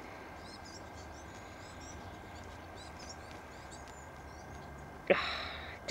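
Small birds giving faint, high, thin chirps, scattered irregularly throughout, over a low steady background. About five seconds in, a short, loud rushing sound starts suddenly and fades within a second.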